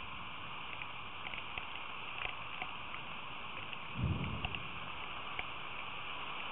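Rain falling steadily as a hiss, with scattered sharp ticks of drops striking nearby, and a short low thump about four seconds in.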